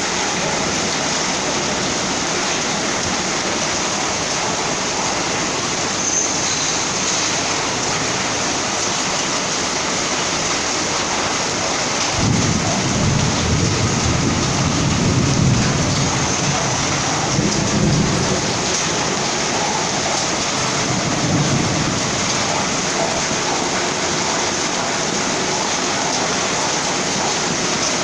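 Heavy rain pouring down steadily, with a long roll of thunder that starts suddenly about midway through and rumbles on for around ten seconds before dying away.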